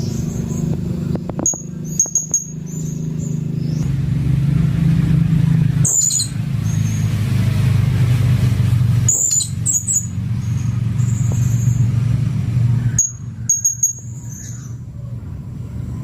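Blue-crowned hanging parrot (serindit) giving short, high, sharp chirps in scattered groups, over a loud steady low rumble.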